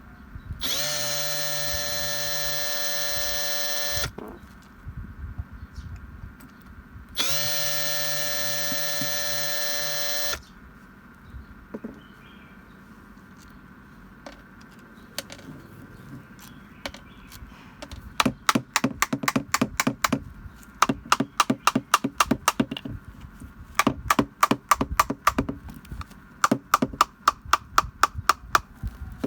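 A small electric power tool motor is switched on twice, running steadily for about three seconds each time before cutting off. Later come several quick runs of rapid, evenly spaced sharp taps, many strikes a second.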